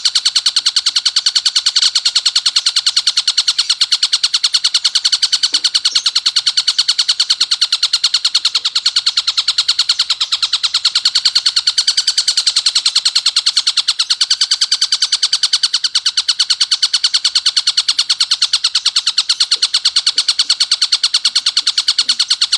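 Tengkek buto calling nonstop in a harsh, dense, rapid chatter of repeated notes, high-pitched and loud.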